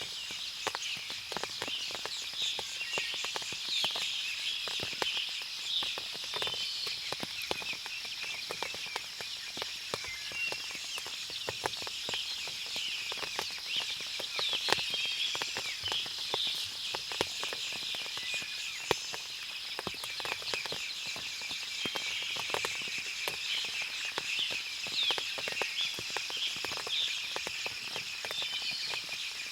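Forest ambience after rain: many birds chirping over a steady high-pitched hum, with frequent sharp drips and ticks scattered throughout.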